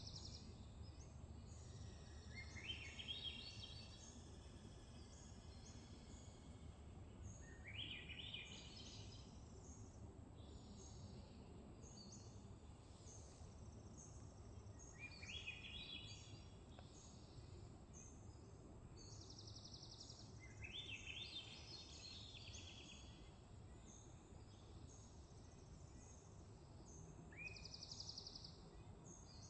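Swainson's thrush singing, faint: four upward-spiralling phrases, each climbing in pitch, spaced several seconds apart over a low steady background rumble.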